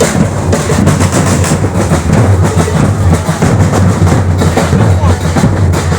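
Loud drumming and music, with voices mixed in.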